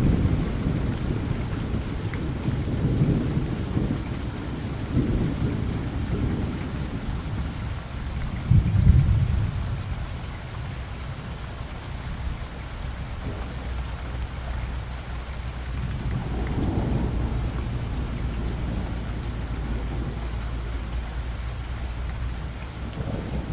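Steady rain falling with low rolling thunder: rumbles swell and fade in the first few seconds, a stronger roll peaks about a third of the way in, and another swells later on.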